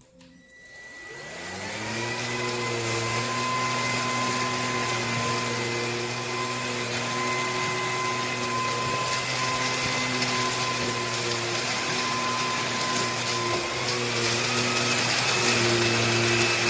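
Bissell PowerClean FurGuard cordless stick vacuum switched on: its motor spins up over about two seconds and then runs with a steady whine. Near the end its pitch steps up a little.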